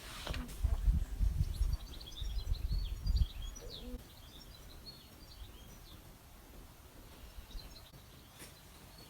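Small birds chirping: many short, high calls, densest in the first four seconds and sparser after. A loud low rumble fills the first three seconds, then stops, leaving a faint steady background.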